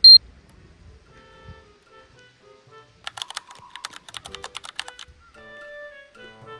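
Soft background music with a run of rapid keyboard-typing clicks lasting about two seconds in the middle, after a short, loud, high beep at the very start.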